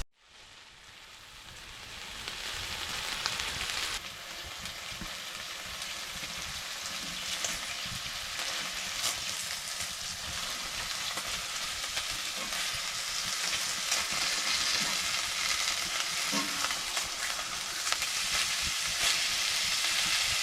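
Steak frying, a steady sizzling hiss with scattered small pops, fading in over the first couple of seconds.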